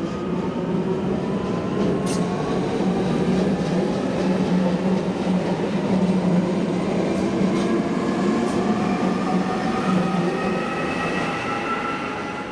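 Matterhorn Gotthard Bahn metre-gauge electric train running by, a dense rumble with a whine that climbs slowly in pitch. It is loudest around the middle and eases off near the end.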